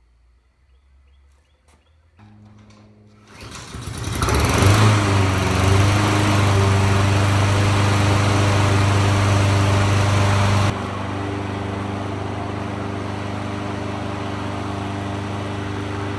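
Honda GCV160 single-cylinder engine of a Husqvarna HU700H self-propelled lawn mower being pull-started and catching on the first pull about four seconds in, then running steadily. Its level drops suddenly about eleven seconds in, and it carries on running evenly.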